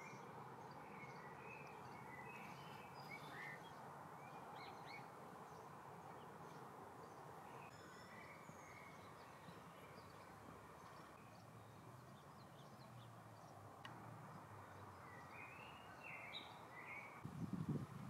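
Quiet garden ambience: faint, scattered small-bird chirps over a steady low background hum. A brief low rumble comes near the end.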